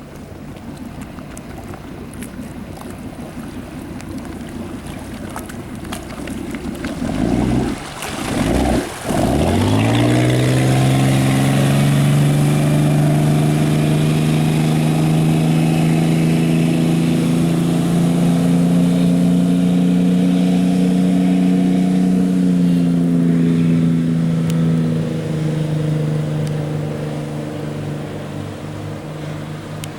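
Motorboat engine opened up to full throttle. It builds gradually and cuts out briefly twice, then its pitch climbs quickly and holds steady at speed before easing off over the last several seconds.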